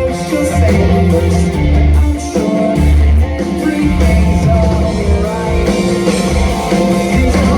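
Rock band playing live at full volume: electric guitar, bass and drums, with a sung lead vocal.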